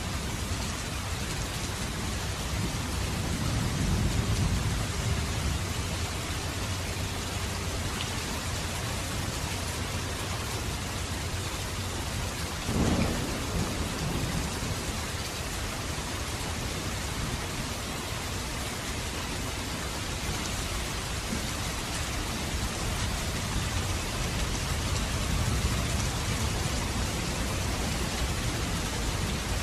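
Steady, even rain, with low rumbles of thunder swelling about four seconds in and again near the end. A brief, loud burst about thirteen seconds in is the loudest moment.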